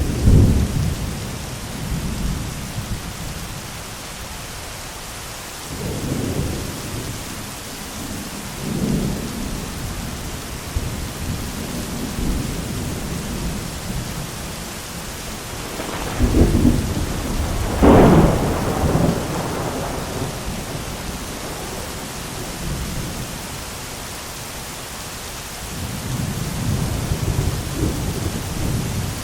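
Thunderstorm: steady rain hissing throughout, with repeated rolls of low thunder. A sharp crack about a second in, and two loud crackling claps of close thunder about 16 and 18 seconds in, are the loudest moments.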